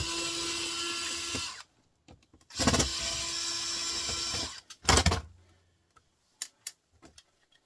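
Cordless drill-driver running in two bursts of about a second and a half and two seconds, backing screws out of a printer part being dismantled for scrap. Then a few sharp knocks of hard parts, followed by lighter clicks.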